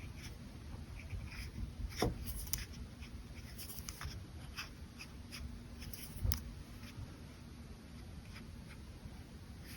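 Brush pen strokes on paper, a string of short, soft scratching strokes, with two louder taps about two seconds in and about six seconds in.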